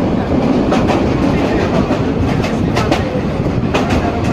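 Passenger train running on the rails: a steady loud rumble, with wheels clacking sharply over rail joints a few times.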